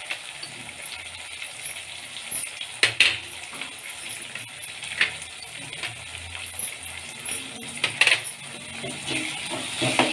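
Chopped beans and carrots frying in oil in an aluminium kadai: a steady sizzle with a few sharp clicks. Stirring with a steel ladle starts near the end.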